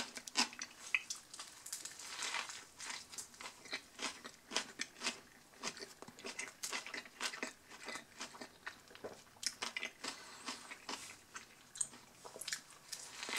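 Close-miked chewing of a mouthful of a Subway Spicy Italian sub with salad and pickles, a run of small, irregular chewing sounds several times a second.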